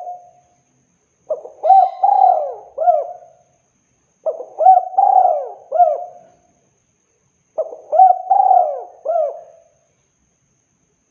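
Spotted dove (tekukur) cooing: three phrases of several arching coo notes each, with a pause of about a second between phrases, falling silent near the end.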